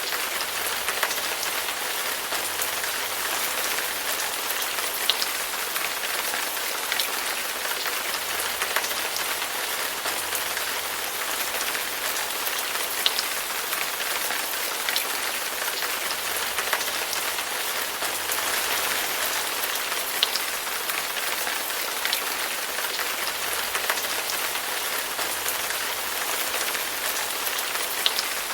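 Steady rain falling on a surface, an even hiss with frequent sharp drip ticks of individual drops standing out.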